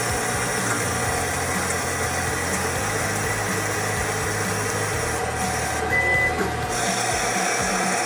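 Homemade CNC lathe running through a machining cycle: a steady motor whine and hum whose pitch steps a few times as the spindle and axes change, with a short high tone about six seconds in.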